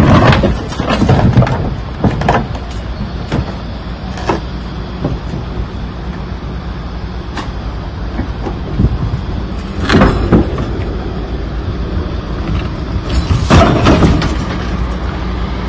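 A vehicle engine running steadily, with a few loud sudden knocks or clatters over it, the loudest about a second in, near the middle and near the end.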